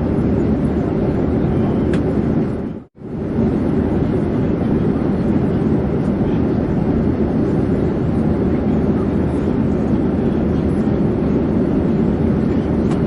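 Steady airplane noise in flight, an even low rumble with no change in pitch. About three seconds in it fades out almost to silence for a moment and comes straight back, like the join of a loop.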